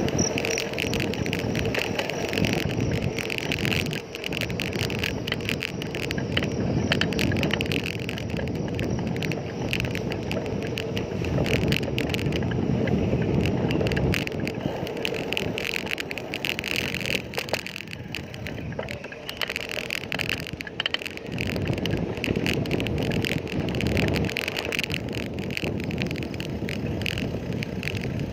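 Noise of a moving bicycle ride: wind buffeting the microphone and the rumble of tyres on the road, with frequent small rattles and clicks from bumps.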